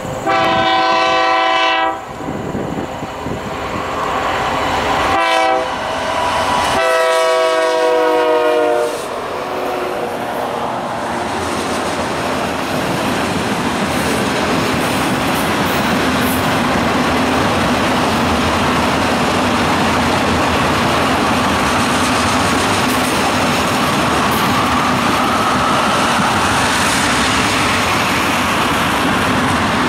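Diesel freight locomotive's multi-tone horn blowing a long blast, a short one and another long one, the last dropping slightly in pitch as it passes. The train then rolls by with steady wheel and rail noise and clickety-clack.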